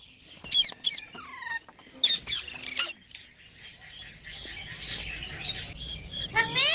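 Pet green ringneck parrot calling: a string of short squawks and chirps, several sharp calls about two seconds in, and a longer rising call near the end.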